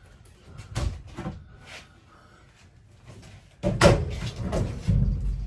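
Wooden closet wall panelling inside an RV being pulled and pried at during demolition. A few sharp knocks come in the first two seconds, then a louder clatter of bangs and rattling from about three and a half seconds in, as the sturdy wall holds.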